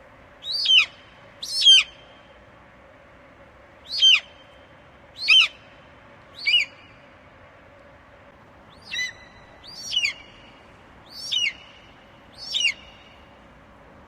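Eagle calling: a run of nine high, shrill calls, each sweeping sharply down in pitch. They come roughly one a second, with short pauses after the second and the fifth call.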